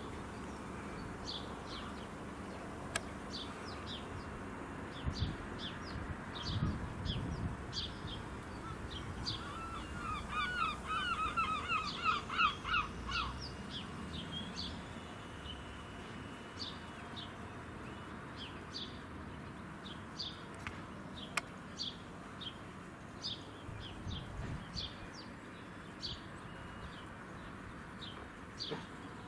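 Outdoor birds calling: short high chirps repeat throughout, with a quick run of repeated harsher calls from about ten to thirteen seconds in. A low background rumble lies underneath.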